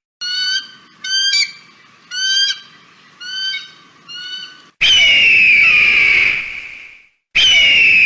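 Eagle calls: a run of about five short, high, chattering bursts roughly a second apart, then a long, loud, falling scream about five seconds in, and another beginning near the end. The calls start abruptly, spliced together from separate recordings.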